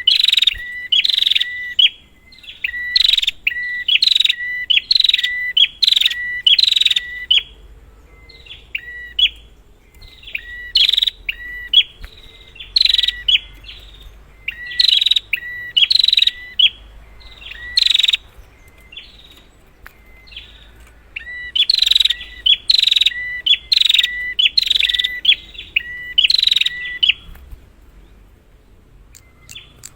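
Prinia (prenjak) calling: sharp, loud notes repeated about twice a second in three bouts, with pauses of a few seconds between them. It is a lure call meant to set a silent prenjak singing.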